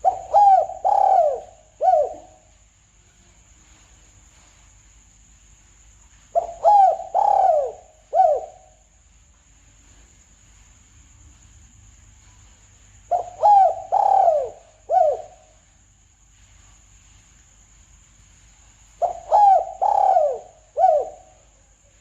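Spotted dove (tekukur) cooing, played as a hunting lure call: four phrases about six seconds apart, each a run of three or four coos ending in a separate final note. A faint steady high-pitched whine runs underneath.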